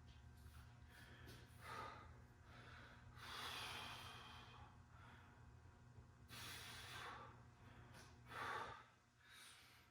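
Faint, heavy breathing of a person exerting themselves through exercise reps: several long, airy breaths a second or two apart, over a faint steady hum.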